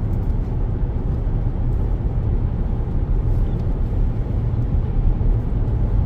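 Steady road noise inside a moving car's cabin: a low, even rumble of tyres and engine at freeway speed.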